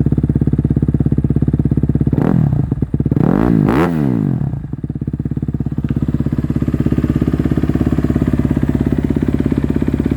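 2021 Honda CRF250R's single-cylinder four-stroke engine, fitted with a full Yoshimura dual exhaust, idling steadily while warming up after a cold start. It is revved twice with quick throttle blips about two and three and a half seconds in, then settles back to idle.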